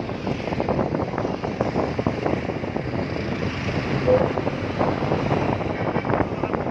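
Wind buffeting the microphone over a steady rumble of vehicle and traffic noise, with a brief short tone about four seconds in.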